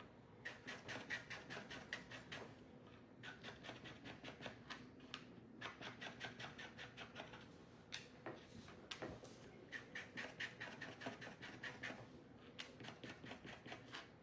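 Faint marker tip scratching over a surface in quick back-and-forth strokes, several a second, in runs broken by short pauses.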